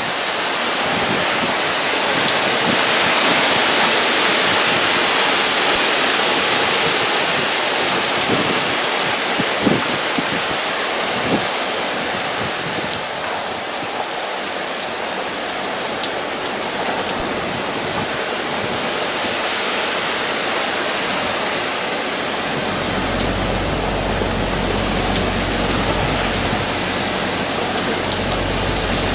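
Steady heavy hurricane rain pouring down, with scattered drops tapping. A low rumble joins in about three-quarters of the way through.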